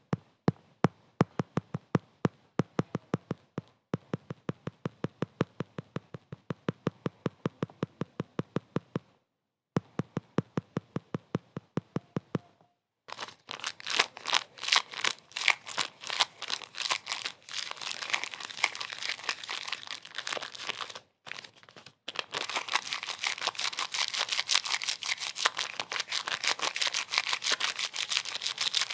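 Sharp clicks repeating evenly, about four a second, with a few short breaks. About thirteen seconds in they give way to louder, dense crackling and crinkling.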